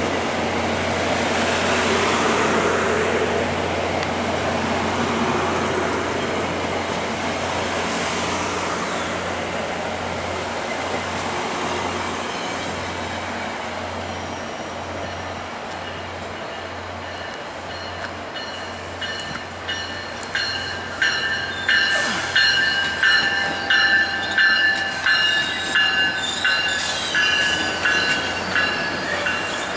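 VIA Rail LRC passenger coaches rolling past and pulling away, a steady rumble of wheels on rail that slowly fades. In the last third the wheels squeal, high-pitched tones that swell and drop about once a second as the train moves off over the curving tracks.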